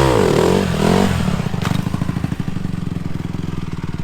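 Dirt bike engine revving up and down in quick blips, then running at a steady, even pulse from about a second in, with a single sharp click partway through.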